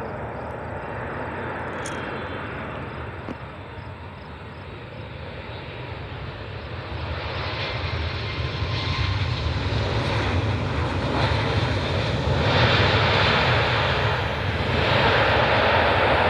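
Jet engines of a Southwest Airlines Boeing 737 on landing approach, growing steadily louder from about a third of the way in as the airliner comes closer, loudest near the end.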